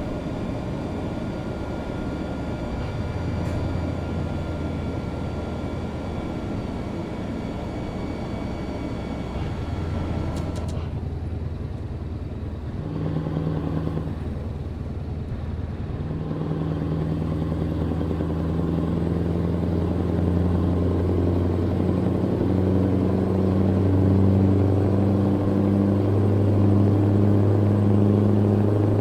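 Truck engine running under way, with a thin high whine over it that stops suddenly with a click about ten seconds in. The engine note then shifts and grows steadily louder as it pulls.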